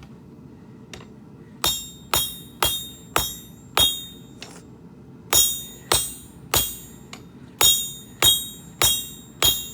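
Blacksmith's hammer striking steel on an anvil: twelve ringing blows in three runs of five, three and four, about two a second.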